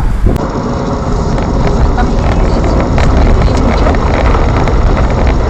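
Steady rumble of a vehicle driving, loud and even throughout, with a few faint clicks.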